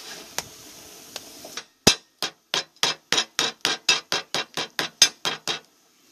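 A cooked oil roti sizzling on the griddle, then being beaten to break it into flaky shreds: a quick run of sharp knocks, about four a second, starting suddenly just under two seconds in.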